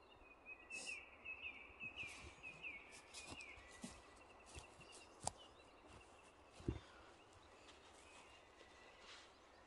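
Faint outdoor sounds: a bird chirping in a quick run of short notes, mixed with brief scratching from a dog digging in garden soil, and two sharp knocks about five and seven seconds in.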